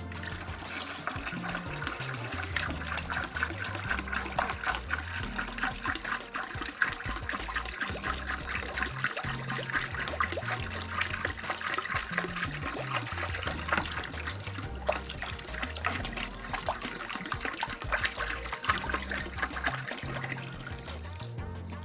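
Water running steadily from a tap, starting and stopping abruptly, over background music with a steady bass line.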